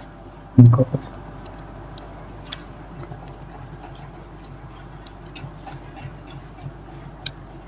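Someone eating a whole lemon: faint, irregular small clicks of chewing and mouth noises over a low hum, with one short loud vocal sound about half a second in.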